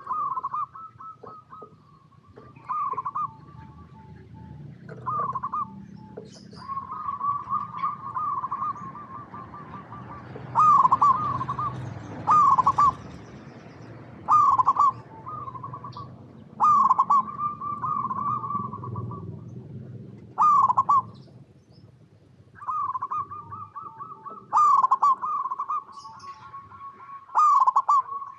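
Zebra dove (perkutut) cooing: repeated phrases of rolling, trilled coos at about the same pitch, some short and some drawn out, about a dozen in all. High thin chirps from a smaller bird come in with them from about the middle on.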